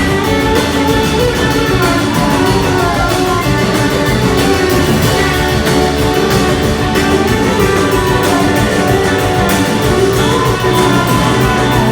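Live rock band playing with an electric slide guitar solo over the band and drum kit, the guitar's notes sliding up and down in pitch.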